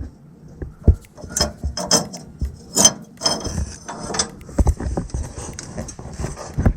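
A hitch bolt on a fish wire being pulled through a pickup's steel frame rail, clanking and knocking against the inside of the tube, with scraping from about three seconds in.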